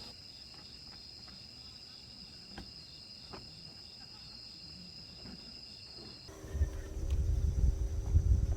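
Crickets chirping in a steady high trill, with a few faint clicks. About six seconds in, the sound changes abruptly to a loud low rumble with a steady hum.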